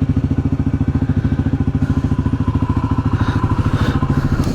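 Yamaha WR250R's single-cylinder engine idling with a steady, even pulse, then shut off at the very end.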